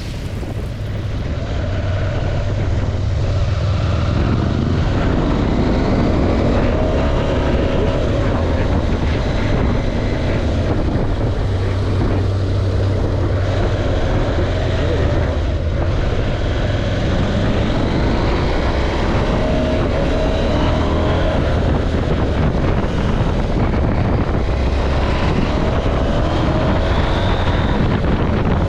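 KTM 790 Adventure's parallel-twin engine running under load, its pitch sweeping upward several times as the bike accelerates, with wind noise on the camera microphone. The sound fades up over the first couple of seconds.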